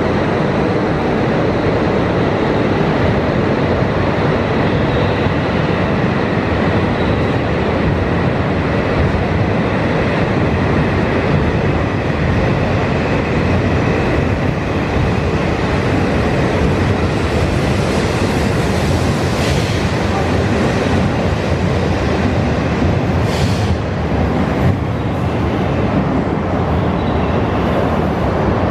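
Tohoku Shinkansen bullet train departing and running past along the platform: a steady, loud rumble and rush, with a faint high whine in the first half and brief hisses later on.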